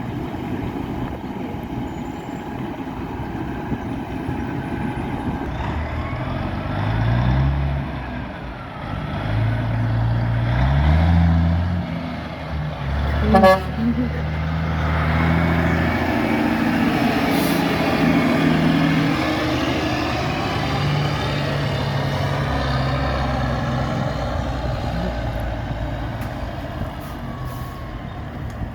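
Diesel semi-truck engine pulling away, its revs rising and dropping in steps as it shifts up through the gears. A short horn blast sounds about halfway through, then the engine runs on steadily as the truck passes.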